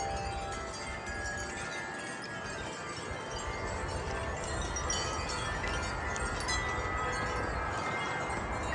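Wind chimes ringing in gusty wind, many tones overlapping and sustaining, over steady wind noise and rumble on the microphone.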